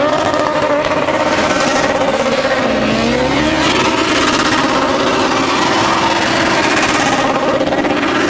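Motorcycle engines running and revving, with the pitch of one engine dropping and then climbing again about three seconds in.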